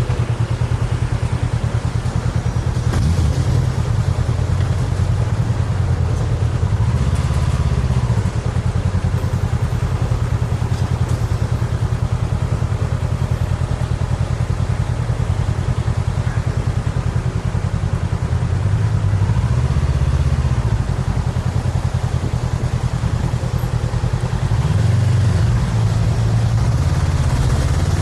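Honda CB500X's parallel-twin engine running steadily under way, a deep even drone that swells a few times as the throttle changes.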